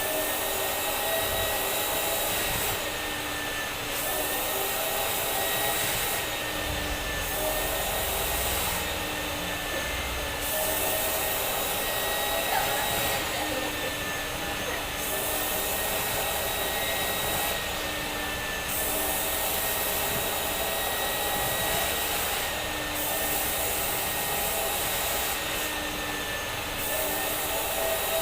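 Vacuum cleaner running steadily, its motor whine holding a near-constant pitch while the rush of air above it grows and fades every second or two.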